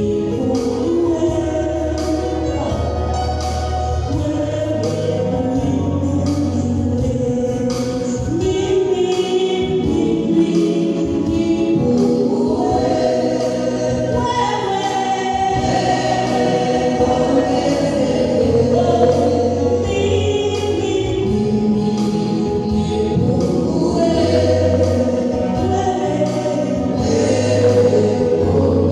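Gospel choir singing with band accompaniment: a strong bass line under the voices and a steady beat.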